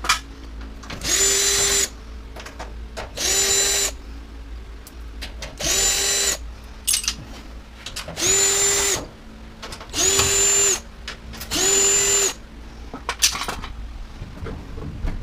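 Cordless power drill spinning in six short bursts, each under a second, a steady motor whine that winds up at the start of each burst: driving screws out of a washer/dryer's panels. Light clicks and handling noise come between the bursts.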